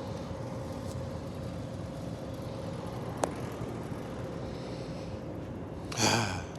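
Steady low mechanical rumble with a faint constant hum, broken by a single sharp click about three seconds in and a brief louder pitched sound near the end.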